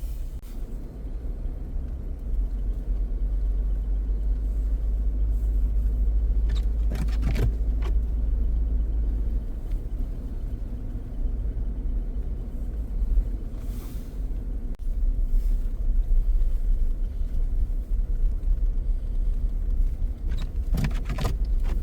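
Steady low rumble of a car heard from inside the cabin while sitting in slow traffic, with a few brief knocks.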